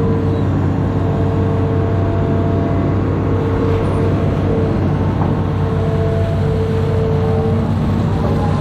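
Amphibious excavator's diesel engine running steadily under work, with a higher whine that drops out and comes back several times.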